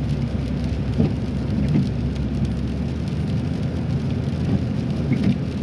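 Steady low road and tyre rumble inside a moving car on a wet road, with light rain ticking on the car.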